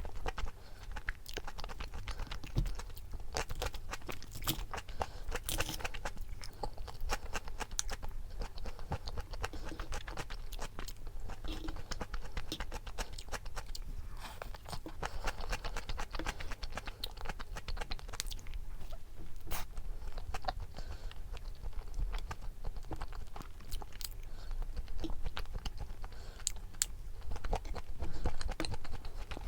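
A person chewing and biting food, with frequent small crunches and crackles that come and go unevenly.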